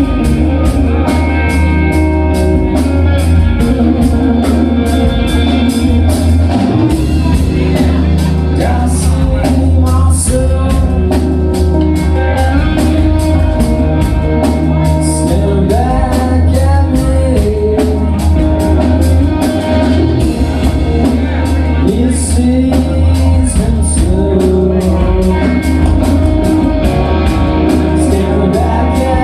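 Rock band playing live and loud, with a singer over electric guitar and drums keeping a steady beat.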